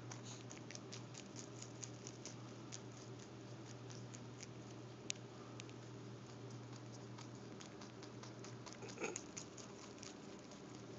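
Pet rabbit chewing cilantro: quick, irregular crunching clicks, a few a second, with one sharper click about five seconds in. A steady low hum runs underneath.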